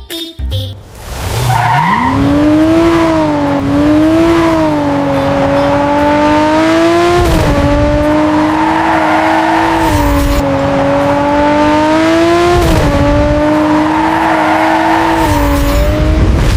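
Sports-car engine sound effect revving up about a second and a half in, then running at high speed with a steady high-pitched tone that bends briefly a few times.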